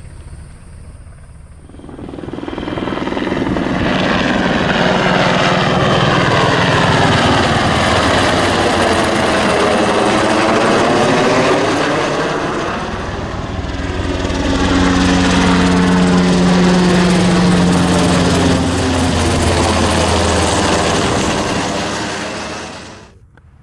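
Sikorsky HH-60G Pave Hawk helicopter flying past close by, its rotor and turbine noise swelling in about two seconds in. The sound sweeps as the helicopter passes overhead midway, then runs on loud and cuts off suddenly near the end.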